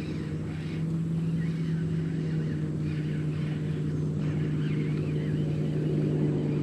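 Electric trolling motor of an Old Town Autopilot 136 fishing kayak running with a steady hum. It gets louder about a second in and shifts slightly in pitch near the end.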